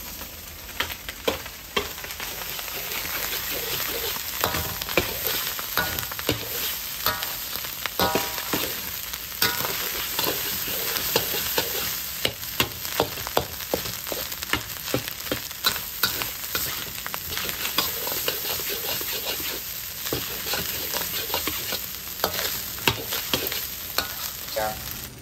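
Fried rice being stir-fried in a hot pan: a steady sizzle with frequent sharp clicks and scrapes of the stirring utensil against the pan.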